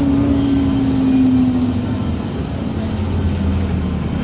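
MAN Lions City G articulated bus's differential and gearbox whining over a low drivetrain rumble. The whine falls slowly in pitch over the first two seconds and fades, as the bus slows.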